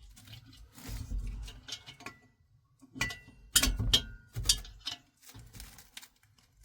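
Small metal parts and hand tools clinking and knocking during the reassembly of a diesel heater: a dull thud about a second in, then a cluster of sharp clinks from about three to four and a half seconds in.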